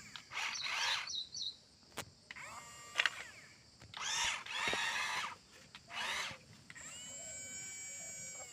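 Small electric gear motors of remote-control toy construction vehicles whirring in short runs, with a sharp click about two seconds in and a steadier whine near the end.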